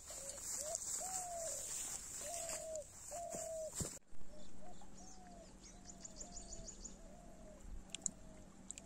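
A bird calls a short hooting note that rises and falls, repeated about once a second, over a steady high insect drone. A soft knock comes about four seconds in.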